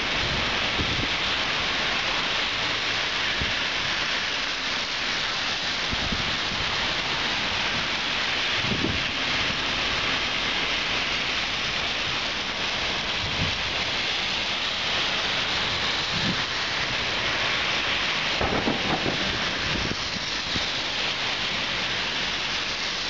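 Heavy rain falling steadily and densely during a storm, with a few brief low thumps.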